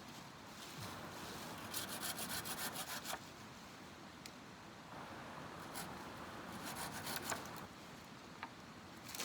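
Wood being scraped or worked by hand in rapid, even strokes, in two bouts of about a second and a half each: one shortly after the start and one past the middle.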